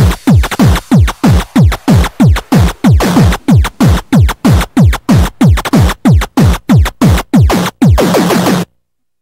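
Electronic dance music with a heavy, distorted kick drum whose pitch drops sharply on every hit, about three hits a second. The track cuts off suddenly near the end into silence.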